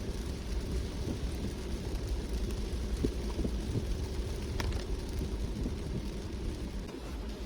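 Car driving in the rain: a steady low rumble with a hiss of rain and wet road over it, and a single short tick about four and a half seconds in.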